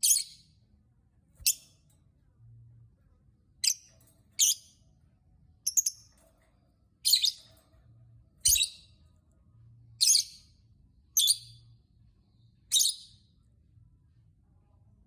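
Lovebird giving about eleven short, shrill calls at irregular gaps of one to one and a half seconds, falling quiet near the end.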